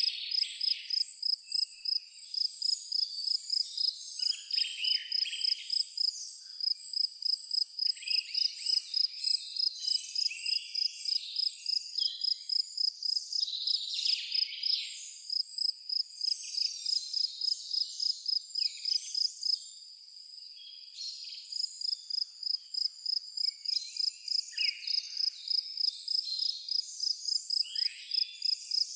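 A cricket chirping in a steady, even rhythm of about two to three chirps a second, dropping out briefly about two-thirds of the way through, with scattered short bird calls around it.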